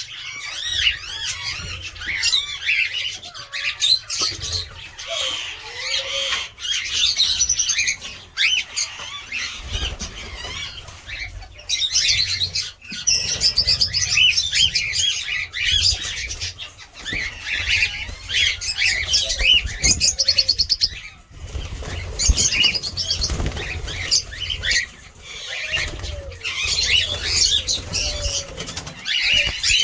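A flock of caged cockatiels chirping and calling over each other without a break, with wings flapping now and then.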